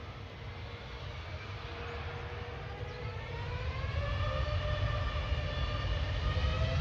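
Jet airliner drawing closer: its engine whine rises in pitch and grows steadily louder over a deepening low rumble.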